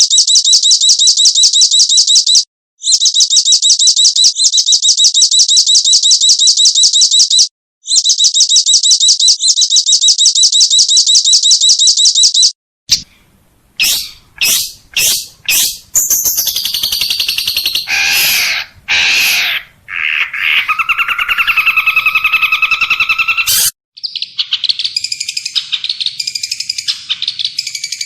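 Recorded songbird calls spliced one after another. First comes a fast, steady, high trill that lasts about twelve seconds with two short breaks. After a sudden cut there are scattered chirps and a varied warbling song, and a second cut near the end brings rapid twittering.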